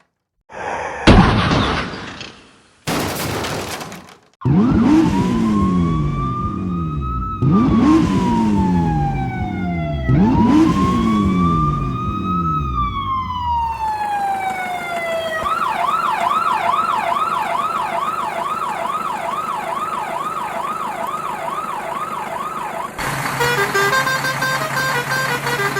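Two short crash sounds, then an emergency-vehicle siren sound effect: three slow rising-and-falling wails, after which it switches to a fast yelp warble. Near the end a different, steadier sound takes over.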